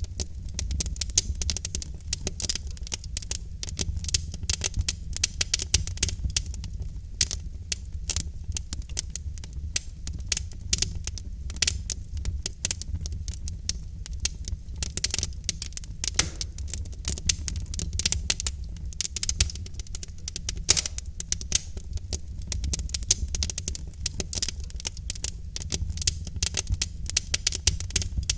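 Wood logs burning in a fireplace, crackling with dense, irregular pops and snaps over a steady low rumble of the fire.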